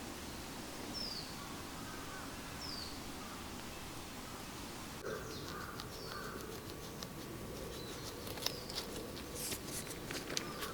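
Wild birds calling: two short, high, falling chirps in the first three seconds, then two lower calls about five seconds in. Scattered sharp clicks and knocks follow near the end.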